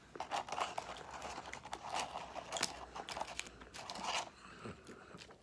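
Irregular crunching and crinkling close to the microphone: fast food being chewed and its paper wrapper handled.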